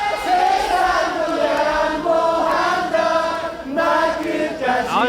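Concert audience singing a ballad chorus together in unison, a large chorus of voices, with the band's music underneath.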